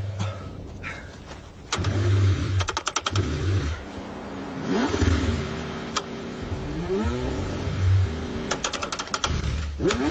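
Car engine cranking on the starter in freezing cold, in repeated bursts with runs of rapid even clicks, struggling to start.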